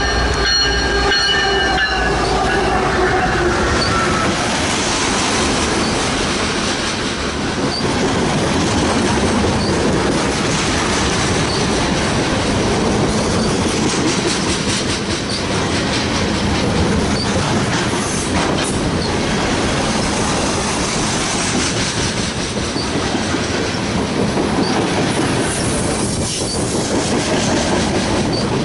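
A CSX freight train passing slowly: a locomotive horn trails off in the first few seconds, then the freight cars roll by with a steady rumble and irregular wheel clatter over the rail joints.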